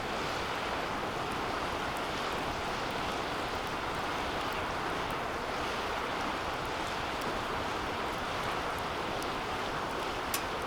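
Wood fire burning in a metal fire pit: a steady rushing of flames with scattered small crackles and ticks, and one sharper pop near the end.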